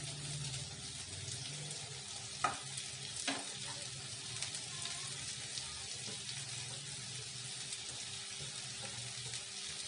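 Onions sizzling in a little oil in a kadhai on a gas flame, a steady frying hiss. Two sharp knocks a little after two and three seconds in as shredded cabbage and capsicum are tipped in from a steel plate.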